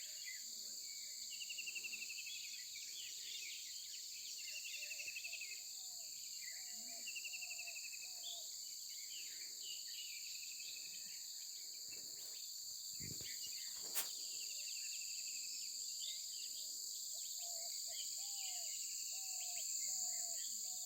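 Outdoor nature ambience: a steady, high-pitched insect chorus, with short trilling calls repeating every couple of seconds and a series of lower short calls. A single sharp click sounds about 14 seconds in.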